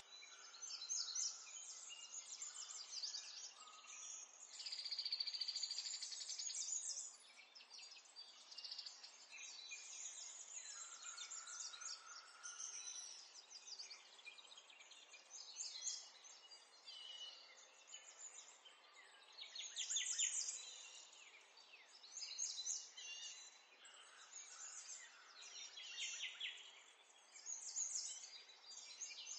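Faint birdsong: many quick chirps and rapid trills, coming and going in short runs.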